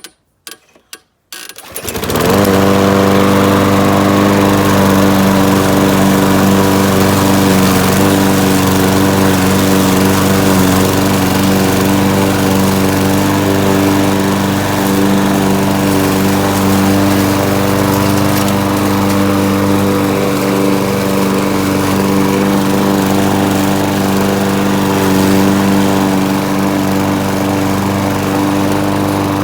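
Gas walk-behind lawn mower engine that starts about two seconds in, after a few short sounds, and then runs steadily and loudly at a constant speed. It is running on a tank that has just been refilled after it ran dry.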